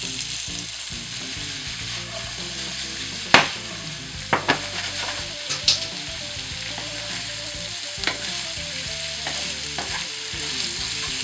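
Cauliflower florets and chopped garlic sizzling in hot olive oil in a frying pan, a steady hiss. A few sharp knocks stand out, the loudest about a third of the way in, as the florets go into the pan and a wooden spatula stirs them.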